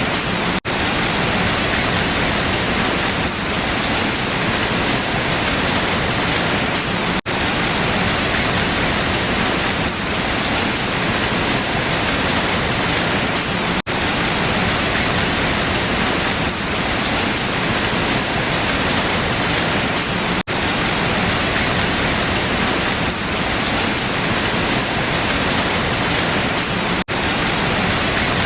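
Steady heavy rain falling on leaves, a dense even patter, broken by a very short dip in level about every six and a half seconds.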